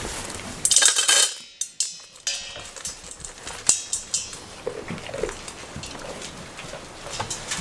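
Goats moving about on a hard shed floor: a loud clattering burst about a second in, then scattered knocks and clicks of hooves, over a steady patter of rain.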